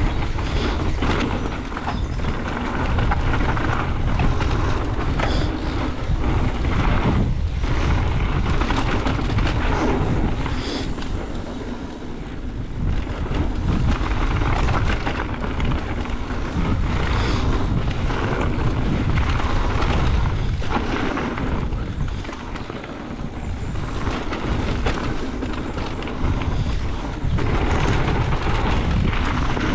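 Wind buffeting a bike-mounted action camera's microphone while a mountain bike runs fast down a dirt trail, with tyre rumble and frequent clattering knocks from the bike over bumps.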